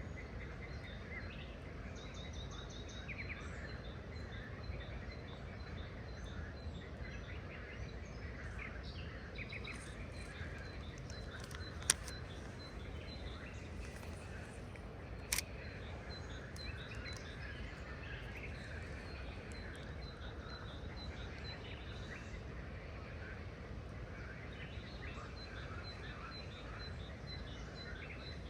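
Several wild birds chirping and calling over a steady low background rumble, with high, rapid ticking trills repeating through. Two sharp clicks stand out, about twelve and fifteen seconds in.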